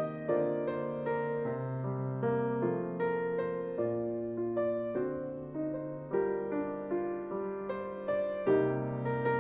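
Soft background piano music: gentle chords and single notes, each struck and left to ring.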